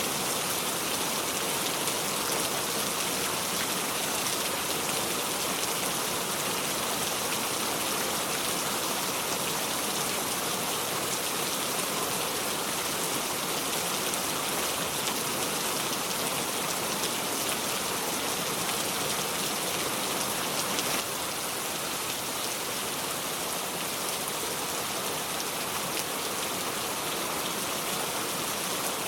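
Steady heavy rain falling, an even hiss with no thunder; it drops slightly in level about three quarters of the way through.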